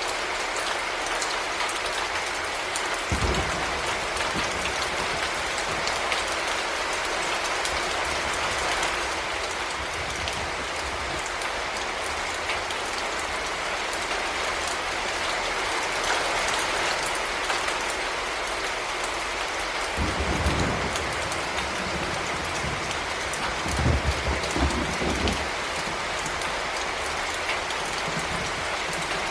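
Heavy rain falling in a steady hiss of drops. A few brief low rumbles or thuds stand out: one about three seconds in, and more around the two-thirds mark.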